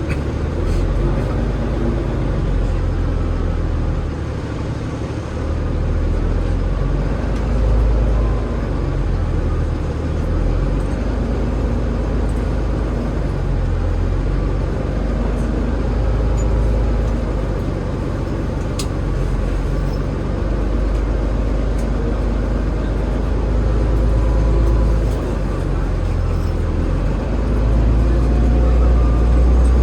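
Alexander Dennis Enviro500 MMC double-decker bus running, its Cummins ISL8.9 diesel engine and ZF EcoLife automatic gearbox giving a steady low rumble, with a rising whine near the end.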